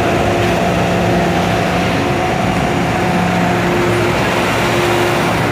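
MTR M-Train electric multiple unit running on the line: a steady rumble of wheels on rail with a low, even hum from the traction equipment.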